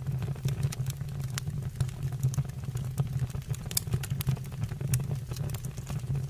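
Fire burning in a fireplace: a steady low roar with frequent, irregular sharp crackles and pops.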